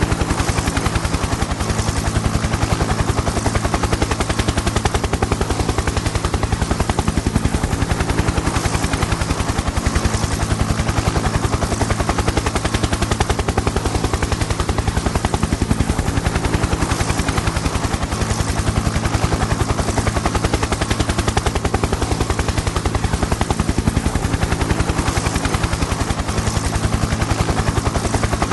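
Helicopter in flight: the rotor's rapid, even blade beats over a steady engine and turbine whine.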